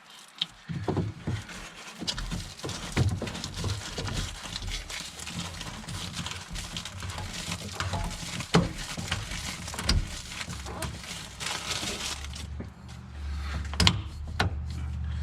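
Hand work on a Cat 272D3 skid steer's fuel filter as it is unscrewed and the new one fitted: irregular clicks, knocks and scrapes of plastic and metal parts being handled. A low steady hum comes in near the end.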